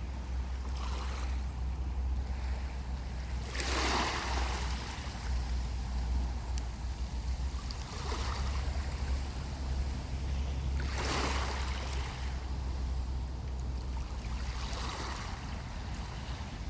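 Sea waves breaking and washing up a beach, each surge swelling and fading, the two biggest about four and eleven seconds in, over a steady low rumble.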